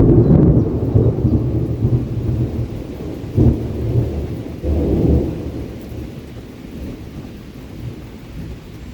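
Rolling thunder over steady rain: a deep rumble, loudest at first, swelling twice more around the middle and then fading away.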